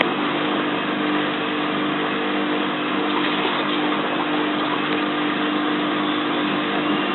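Bosch WFF2000 washing machine spinning on its 400 rpm interim spin after the wash: a steady motor hum over an even rushing noise. The load in the drum is not well balanced.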